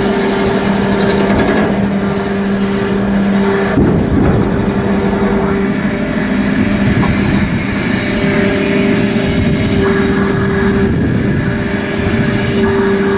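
Loud, steady machinery noise with a constant low hum, growing rougher for a moment about four seconds in.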